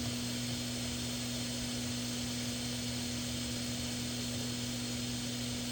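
Steady hiss with a constant low electrical hum, unchanging throughout.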